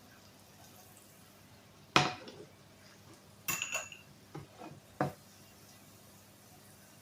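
Kitchen utensils knocking and clinking against cookware: one sharp knock about two seconds in, then a few clinks with a brief metallic ring and some lighter knocks.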